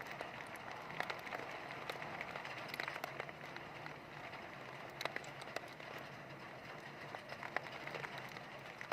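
Heavy rain falling: a steady hiss with many irregular sharp taps of drops striking a hard surface.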